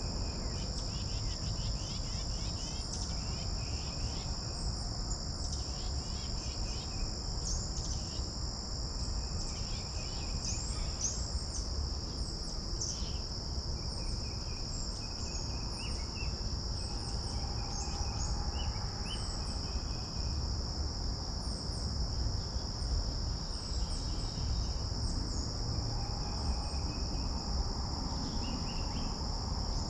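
Steady insect chorus, a continuous high trill at two pitches, with scattered short bird chirps throughout and a low wind rumble on the microphone.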